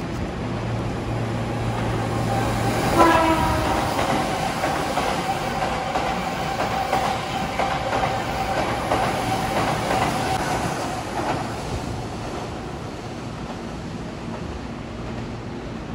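Keihan electric express train giving a short horn blast about three seconds in, then running past at speed with wheels clattering over the rail joints and a steady whine. The noise eases off after about eleven seconds.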